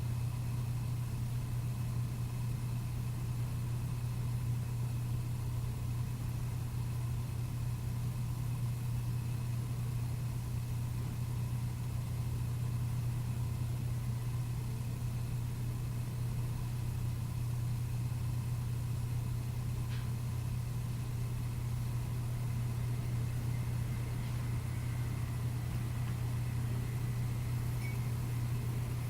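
Steady low hum, unchanging, with faint thin high-pitched tones above it.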